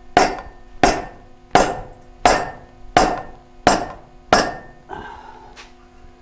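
A hammer striking an exhaust pipe seven times, evenly spaced about two strikes every one and a half seconds, the metal ringing after each blow. This is typical of working a pipe end to fit an ill-matched muffler. The blows stop about four and a half seconds in.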